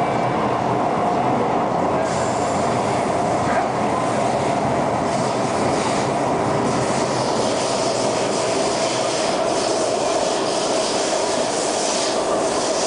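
SMRT C651 train running through an underground tunnel, heard from inside the carriage: a steady rumble of wheels on rail with a steady whine under it. The hiss of the wheels on the rails grows louder about halfway through.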